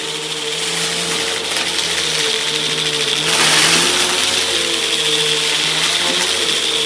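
Hoover vacuum cleaner running with a steady motor whine, with a short surge of rushing air about three and a half seconds in.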